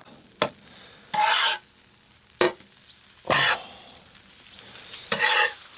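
Spatula stirring and scraping eggs in a hot pan while they sizzle. A sharp tap is followed by a brief scrape about every two seconds, three times.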